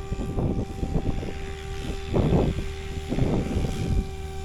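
Radio-controlled model helicopter in flight, its motor and rotors giving a steady whine of unchanging pitch over a low rumble.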